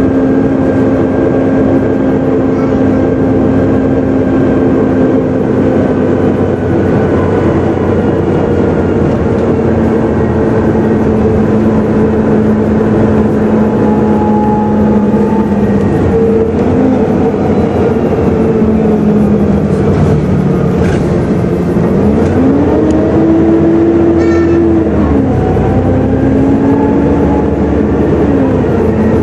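Volvo B7TL double-decker bus heard from on board: its turbodiesel engine and drivetrain run under way, making the whining, vacuum-cleaner-like 'hoover' sound. The whine's pitch sinks slowly, rises sharply a little over two thirds of the way through, holds, and drops again, following road speed and gear changes.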